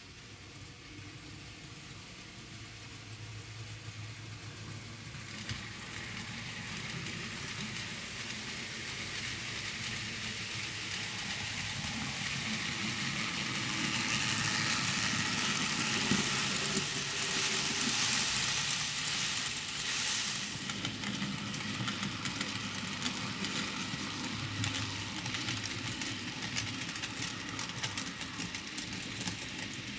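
N gauge model train running along the layout's track, its wheels and motor making a steady rolling hiss. It grows slowly louder as it nears, is loudest around the middle, then eases off a little.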